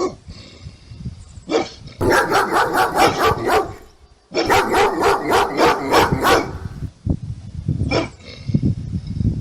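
Bulldog sound effects: a dog barking in two long runs of rapid, repeated barks, with single barks before and after and a low rumble near the end.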